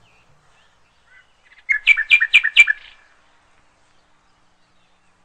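A bird chirping a quick run of about six short, high notes, about two seconds in.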